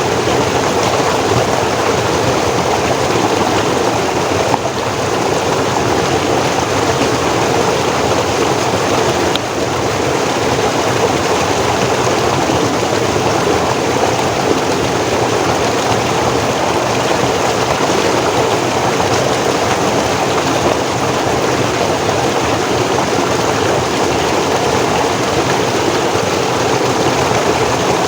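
Forest stream flowing and splashing steadily, a dense even rush of water.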